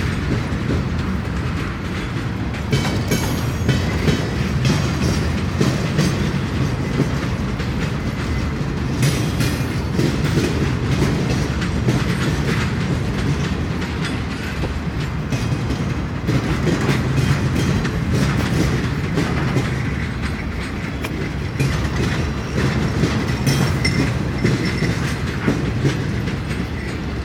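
Freight train flatcars rolling steadily past, with a continuous low rumble and the clickety-clack of steel wheels over rail joints.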